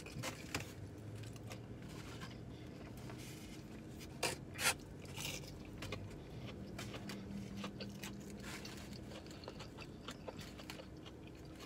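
A man chewing crispy fried chicken and fries, with soft wet mouth noises and two sharp smacks about four and a half seconds in, over a faint steady low hum.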